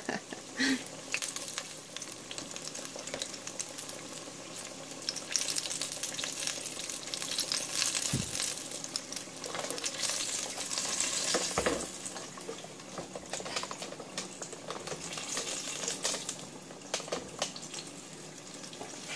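Pear fried pies frying in shallow vegetable oil in a pot: a steady sizzle dense with fine crackles. Two dull thumps around the middle.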